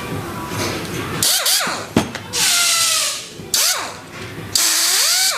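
Air-driven SUMAKE ST 6355 rivet nut tool run in four short bursts: the air motor's whine glides up and down in pitch, with a hiss of exhaust air at each burst and a sharp click about two seconds in.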